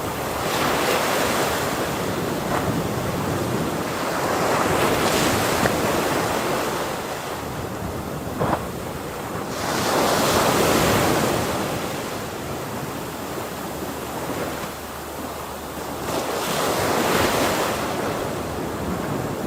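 Ocean waves breaking and washing in, swelling and falling away in a slow rhythm, four surges a few seconds apart over a continuous rush of surf.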